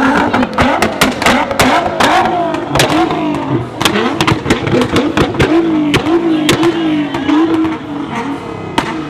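A performance car engine revved hard again and again, its pitch rising and falling, with many sharp exhaust pops and bangs. It eases off near the end.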